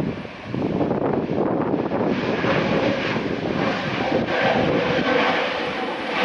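Jet airliner engines at takeoff power: a steady rushing noise with a faint steady hum, dipping briefly just after the start and growing brighter about two seconds in.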